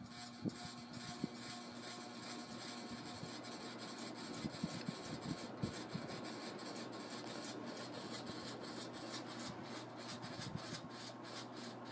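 Tatung Hugger ceiling fan running after being switched on: a steady whir that builds over the first couple of seconds, with scattered light ticks and a vibrating noise from the light kit, which is a little heavy for the fan.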